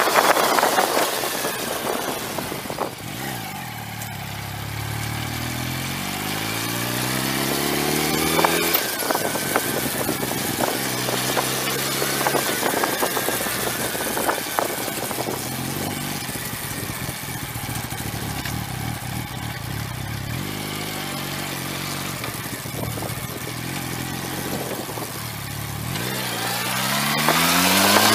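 Yamaha R1 sport bike's inline-four engine revving up through the gears, its pitch climbing steadily a few seconds in, then running at a changing cruising speed and climbing hard again near the end. Wind buffets the microphone in the first second.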